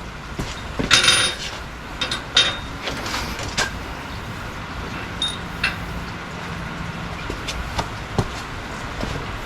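Scattered metallic knocks and clanks of parts and tools being handled while the NSX's engine and subframe are worked loose. The sharpest come about a second in and around two and a half seconds, over a low steady hum.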